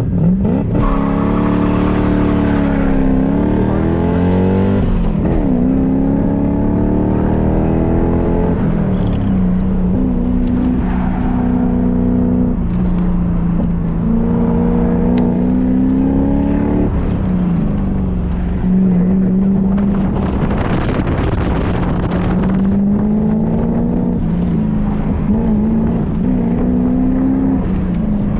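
A car engine driven hard, its pitch climbing under throttle and dropping back again and again as the driver accelerates, lifts and shifts. A rougher, noisier stretch comes about two-thirds of the way in.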